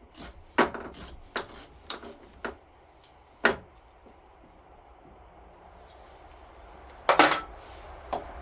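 Metal hand tool clinking and knocking on a lawn tractor's battery terminal as the cables are undone: a run of sharp clicks over the first few seconds, then a louder clatter about seven seconds in.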